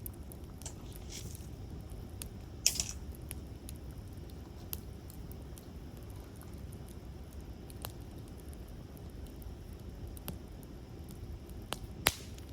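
Campfire crackling: scattered sharp pops and snaps of burning wood over a steady low rumble, with two louder pops, one about three seconds in and one near the end.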